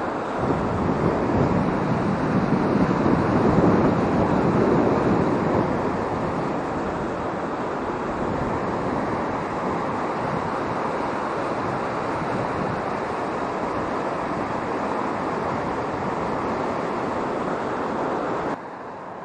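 Steady rushing noise of wind buffeting the microphone over a swollen river during a typhoon. It swells for a few seconds, then holds steady and drops off suddenly near the end.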